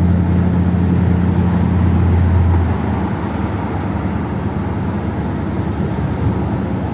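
1957 Ford Thunderbird's V8, running on a two-barrel carburettor setup, pulling along the road with a deep, steady drone. About two and a half seconds in the drone drops away and the level falls, as the throttle is eased off, leaving an even road and tyre rush.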